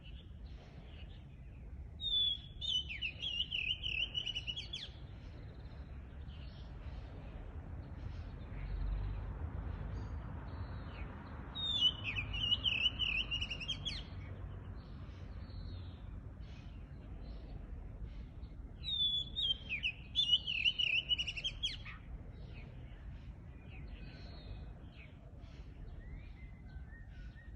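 A songbird sings the same quick warbling phrase three times, each about two and a half seconds long and roughly eight seconds apart, with fainter chirps from other birds in between, over a low steady background rumble.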